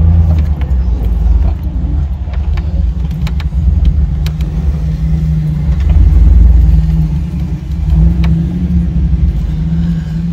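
Jeep engine running at low speed through soft sand, a loud low rumble whose pitch rises and falls slightly as the throttle changes, heard from inside the cabin. Scattered short clicks and rattles sit on top.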